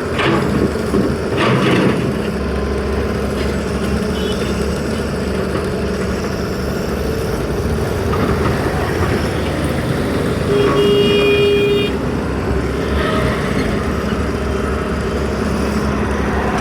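Steady vehicle engine and traffic noise, with one horn toot held for about a second and a half, about ten and a half seconds in.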